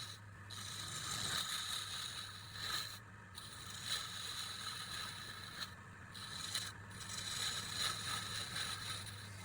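Steady scraping on wood, as of a hand tool or abrasive worked over a wooden surface, broken by a few short pauses. A low hum runs underneath.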